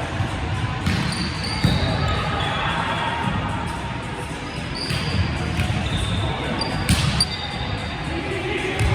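Indoor volleyball rally: the ball is struck sharply several times, with short high squeaks of sneakers on the gym floor between hits and players' voices echoing in the hall.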